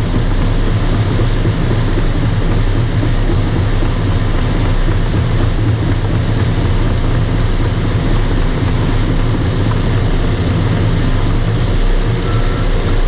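Bulldozer's diesel engine running steadily at working revs, a loud, continuous low rumble, while the dozer pushes topsoil. A few faint short beeps come in near the end.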